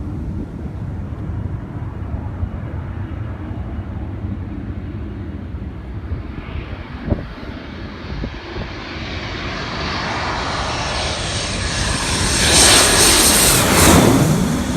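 A military fast jet approaching and passing overhead, its jet noise building from about halfway through to a loud peak near the end, over wind buffeting the microphone.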